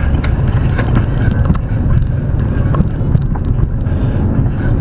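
Steady low rumble of a moving vehicle's road and engine noise, with a few faint clicks.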